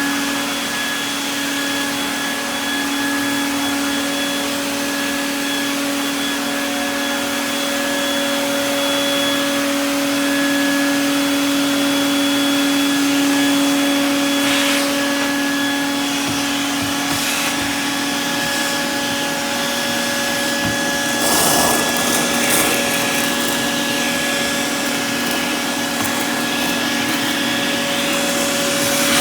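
Craftsman double-insulated shop vacuum running steadily: a constant motor whine over the rush of air through the hose. About three-quarters of the way through there is a short, louder, rougher rush.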